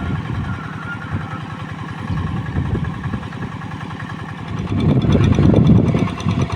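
Hand tractor's diesel engine chugging steadily as it pulls a moldboard plow through soft, deep paddy mud. The engine works harder and gets louder about five seconds in.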